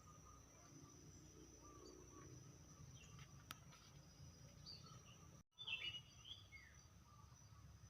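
Faint birdsong: scattered short chirps over a steady high-pitched hum, with a brief gap just past halfway followed by a quick burst of louder chirps.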